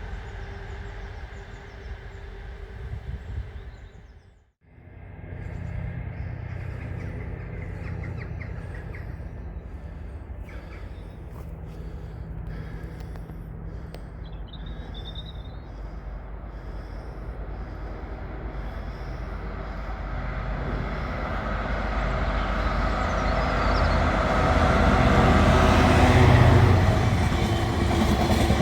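Freight train's diesel locomotive approaching, its engine hum and rail noise growing steadily louder over some twenty seconds. This follows a sudden cut about four seconds in. A bird chirps briefly about halfway through.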